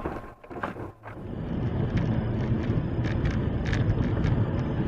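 Steady low rumble of a moving car's road and engine noise, dropping out briefly about half a second in before coming back steadily.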